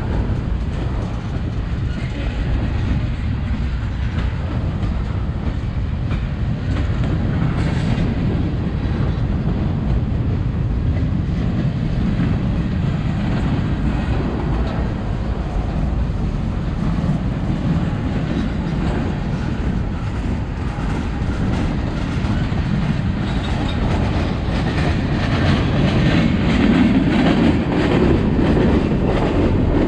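Freight cars of a CSX mixed freight train rolling past: a steady rumble of steel wheels on rail with clickety-clack over the rail joints, which grows a little louder and busier near the end.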